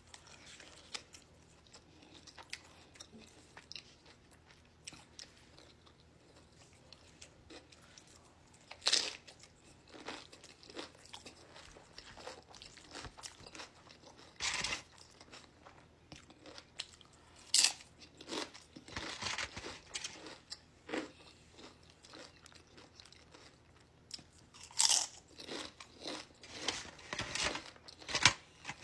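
Close-miked eating: crisp crunching bites into Doritos tortilla chips, several loud crunches spread out, with quieter chewing in between.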